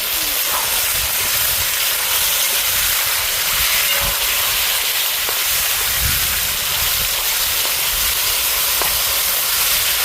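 Steady hissing sizzle from a hot pot in which sugar has been burned in oil and the contents stirred in, before any water is added.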